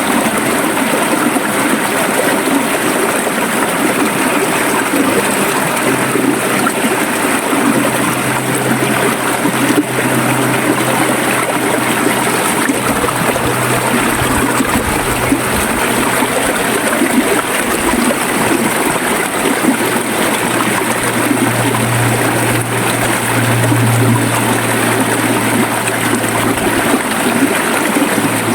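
River water flowing and gurgling over rocks, a steady dense rush. A low steady hum sits underneath, coming and going and swelling for a moment a little after the middle.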